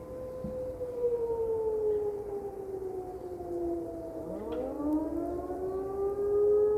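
Several outdoor tornado warning sirens sounding during a system test. One siren's steady tone slides down in pitch, and about four seconds in another winds up with a rising tone, so the sirens' tones overlap.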